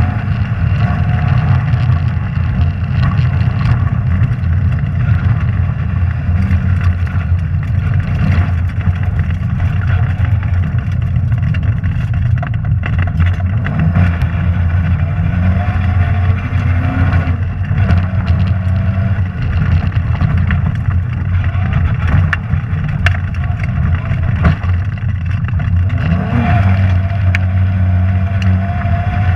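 Rally car engine heard from inside the cabin, running hard under load. Its pitch climbs and falls back at gear changes about halfway through and again near the end, with sharp knocks and clicks scattered throughout.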